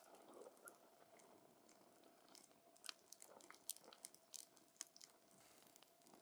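Wood campfire crackling: faint, irregular pops and snaps over a soft hiss, coming more thickly in the middle of the stretch.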